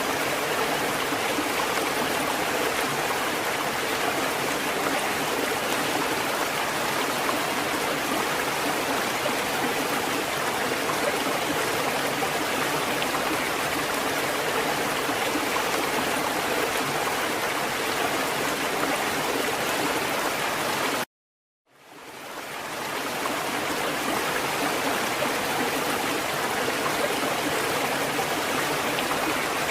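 Water fountain running, a steady splash of falling water. It cuts out for under a second about two-thirds of the way through, then fades back in.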